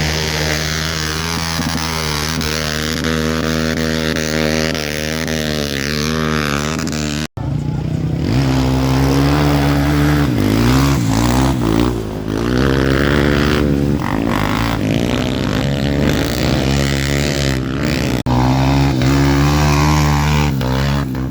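Trail motorcycle engines running and revving in neutral, the pitch wavering up and down with the throttle. The sound breaks off abruptly about a third of the way in and again near the end.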